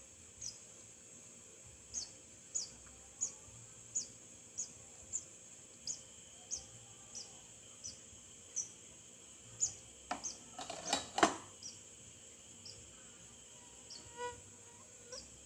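Crickets trilling steadily and high, with short high chirps that fall in pitch and repeat every half second to a second. A brief cluster of knocks and rustles about ten seconds in is the loudest part.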